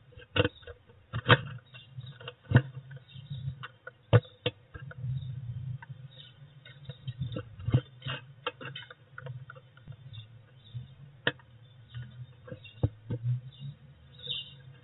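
Irregular sharp taps and scratching on a wooden nest box, heard from inside it: a small bird moving about on the outside of the box. A low rumble runs underneath.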